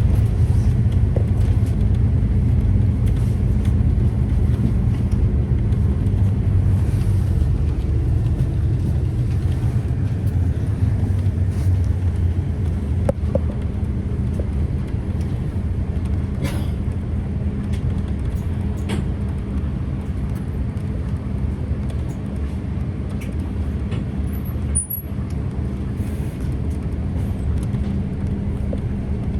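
Scania Citywide city bus running steadily along the road, a continuous low engine and road rumble with a steady hum, broken only by a few faint clicks.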